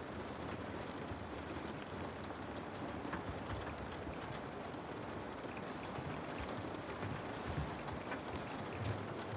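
Steady rain falling, a dense patter of drops against a window, with a few soft low rumbles near the end.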